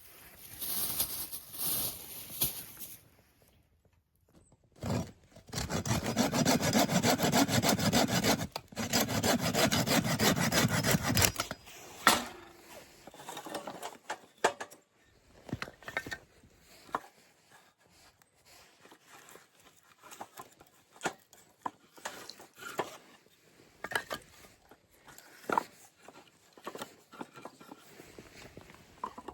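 Hand saw cutting through wood in two runs of rapid strokes, each about three seconds long, with a short break between them, followed by scattered light knocks and clatter.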